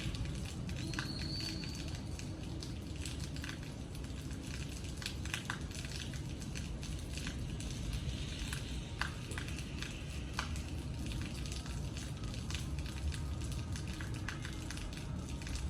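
Rain falling, a steady patter with scattered drips and taps striking nearby surfaces over a low rumble. A brief high whistle sounds about a second in.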